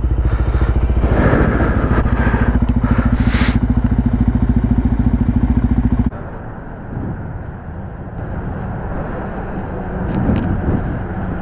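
Motorcycle engine running loud with a rapid, even pulse. It drops off sharply about six seconds in, and a quieter engine sound continues after that.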